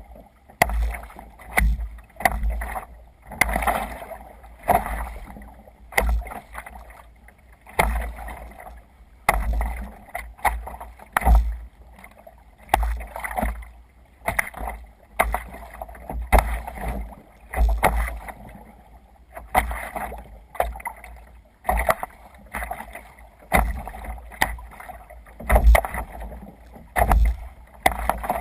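Water splashing and slapping around a sea kayak under way in waves, in surges about every second or so, with low thumps.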